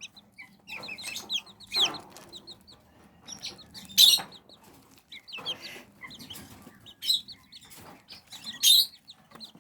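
Young Serama and white Silkie chicks, about three and a half weeks old, peeping in short, high, scattered chirps, loudest about two seconds in, four seconds in and near the end.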